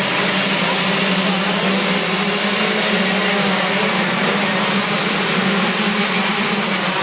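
125 cc two-stroke motocross engines running at steady high revs, with an unbroken, even engine note.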